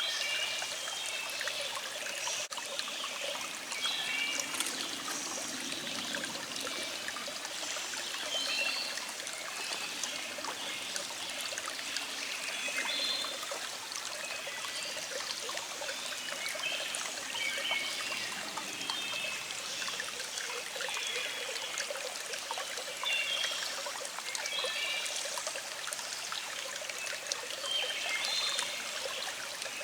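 A small stream trickling and flowing steadily, with birds singing short repeated phrases in the background.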